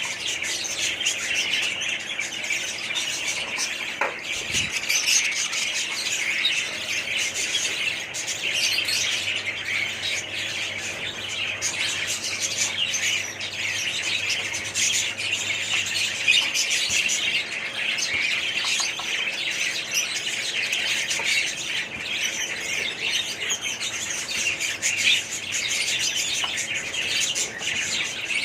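A flock of small pet parrots chattering, chirping and squawking together in a dense, unbroken chorus.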